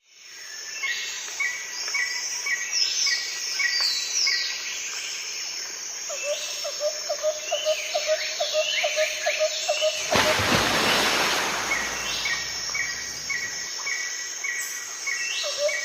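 Several wild birds calling, with runs of short repeated chirps and quick falling whistled notes, plus a lower repeated call in the middle. About ten seconds in, a gust of wind rushes through for about two seconds.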